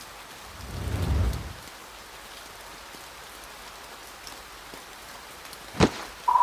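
Steady rain falling, with a brief low rumble swelling and fading about a second in and one sharp click near the end.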